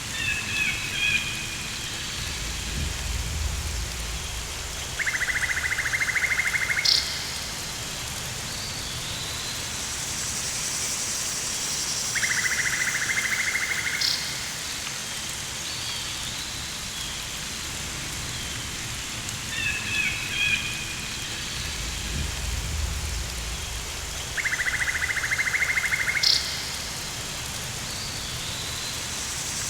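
Rainforest ambience: a steady hiss of rain, with bird chirps, a pulsed buzzing trill about a second and a half long that comes three times, short sharp calls, and a low rumble twice.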